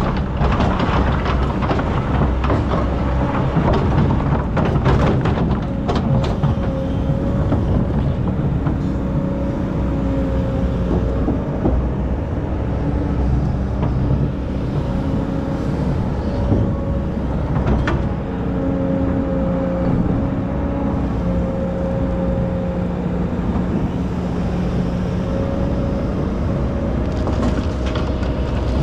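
Excavator's diesel engine running steadily under load, with a whine held over the engine note and a few sharp knocks, around six seconds in and again near eighteen seconds.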